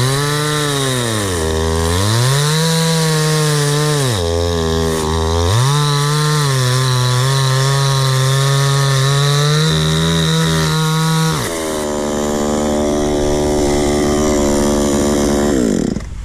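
Petrol chainsaw cutting a gum log into firewood rounds. The engine revs high, dips twice in pitch and climbs back, then holds high through the cut. About eleven seconds in it drops to a lower, steadier speed, and it stops near the end.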